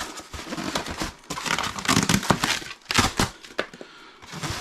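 Packing material being handled: plastic wrap and foam crinkling, rustling and scraping in irregular bursts as packed parts are pulled from the polystyrene.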